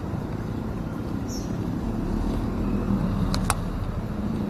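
Motorcycle engine running under a steady rumble of road and wind noise, with two sharp clicks in quick succession a little over three seconds in.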